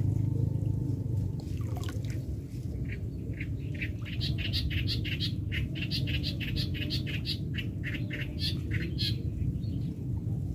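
A bird calling in a rapid series of short, harsh notes, about four a second, starting a couple of seconds in and stopping near the end, over a steady low rumble.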